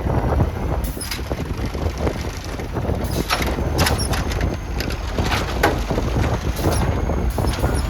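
Garbage truck engine running with a steady low rumble, scattered sharp clanks and rattles over it, and wind buffeting the microphone.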